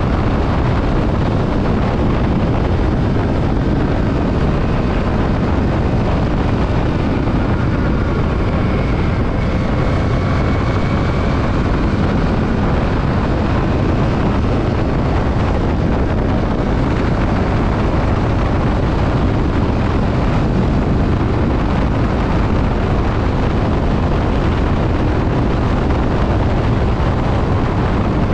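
Steady loud wind rush on the microphone mixed with the running engine and road noise of a Yamaha WR155 motorcycle being ridden, with a faint whine coming and going near the middle.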